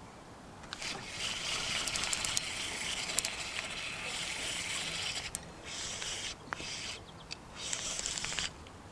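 Fishing reel being cranked in, a rasping whir with scattered clicks, steady for about four seconds and then in two shorter spurts, as a small fish is reeled to the boat.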